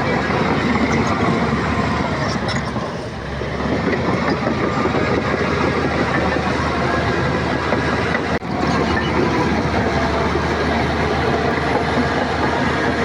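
Shantui crawler bulldozer working, its diesel engine running steadily under load with the steel tracks clattering.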